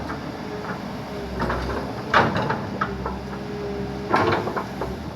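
Backhoe engine running steadily, with a faint wavering whine over it. Two sharp knocks or cracks come about two seconds in and again near the end.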